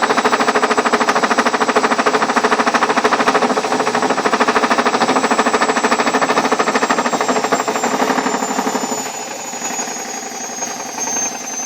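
Ariston washing machine on its spin cycle, knocking rapidly and loudly from inside the drum while the machine itself stays still, a fault the owner says is something knocking inside it. The motor's high whine falls in pitch as the drum winds down, and the knocking fades about nine seconds in as the spin ends.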